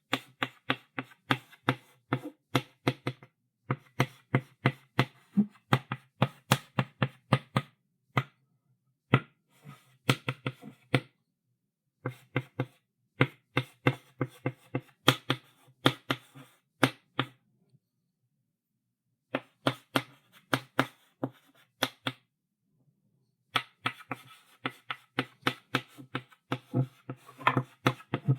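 Chalk writing on a blackboard: rapid taps and short scratchy strokes in bursts of a few seconds, broken by pauses of one to two seconds.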